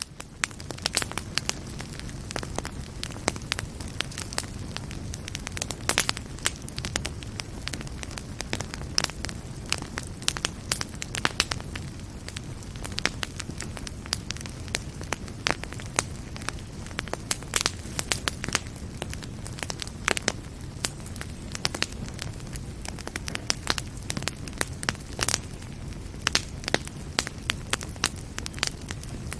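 Wood fire burning in a fireplace: a steady low rumble of flames under dense, irregular crackling and sharp pops, several a second.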